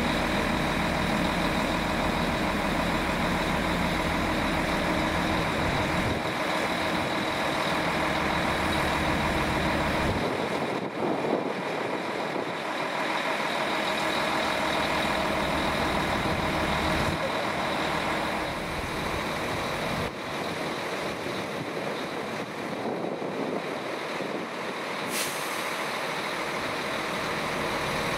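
A train's engine running steadily, a mechanical hum whose low rumble thins out twice in the first half. A brief high-pitched sound comes near the end.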